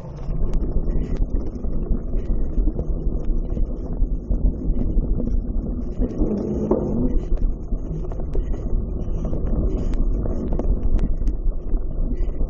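Wind buffeting the microphone in a steady low rumble, with many scattered light clicks and knocks.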